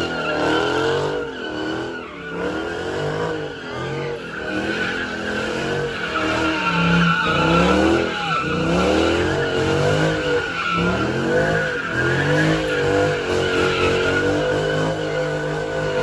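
A car engine revving up and down over and over while its tyres squeal steadily: a car spinning its tyres in a burnout.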